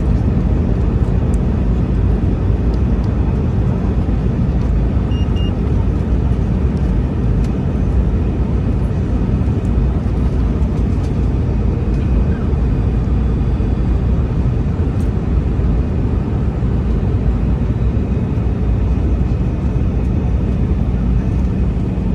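Steady low drone of an Airbus A321-211 cabin in flight: engine and airflow noise heard from inside the passenger cabin.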